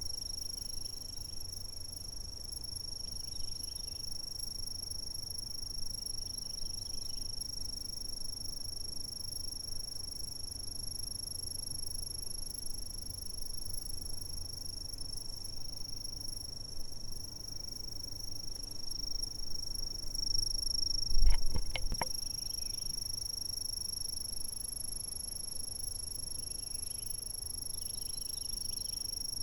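Insects trilling in a continuous high-pitched chorus that holds one steady pitch throughout. About two-thirds of the way through, a few sharp knocks stand out as the loudest sound.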